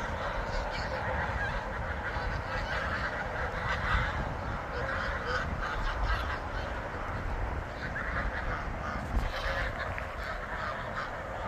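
A flock of geese honking continuously, many calls overlapping.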